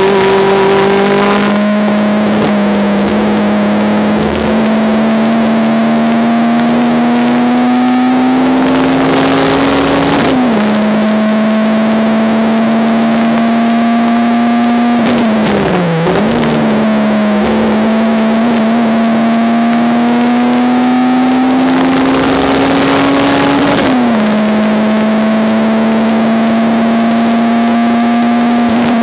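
Honda Civic race car's engine heard from onboard at speed, its pitch climbing slowly through long stretches and dropping sharply at gear changes about 10, 16 and 24 seconds in, over a steady haze of wind and road noise. The onboard recording is of poor quality.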